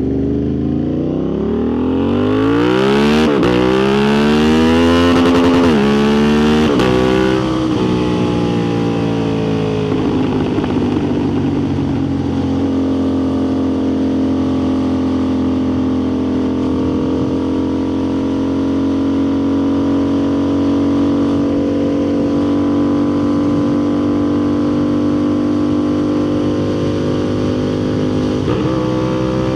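Motorcycle engine accelerating hard through the gears, its pitch climbing and dropping at three quick upshifts. It then eases off and settles into a steady cruise, picking up again near the end.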